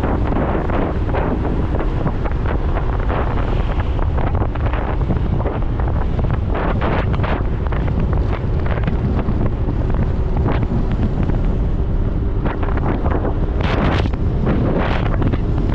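Wind rushing over the microphone of a moving motorcycle: a loud, steady low rumble with frequent gusty crackles, and the bike's running noise underneath.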